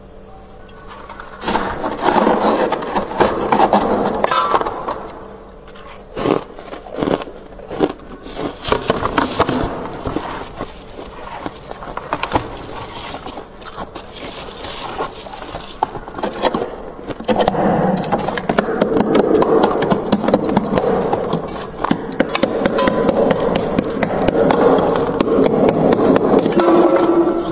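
Freezer frost being scraped, a coarse grating sound in long stretches, with a run of sharp crackling crunches in the middle.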